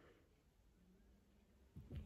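Near silence: room tone, with a faint brief sound near the end.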